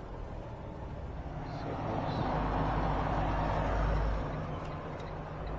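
Semi-truck's diesel engine running with a steady low hum, with a rushing noise that swells and fades between about two and four seconds in.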